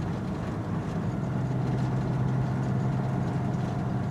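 Semi truck's diesel engine running steadily at low speed, heard from inside the cab.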